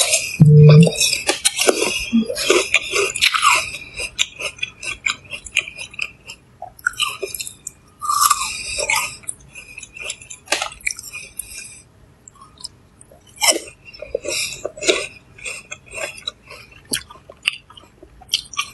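Close-up crunching and chewing of crisp fruit bitten from a skewer, in irregular bursts that pause briefly about two-thirds of the way through. A brief low hum comes about half a second in.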